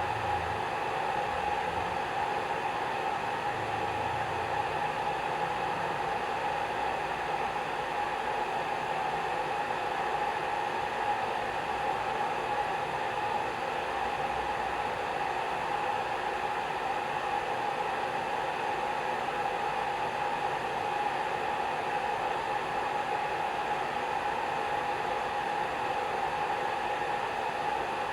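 Hair dryer running steadily: an even rush of blown air with a steady whine running through it.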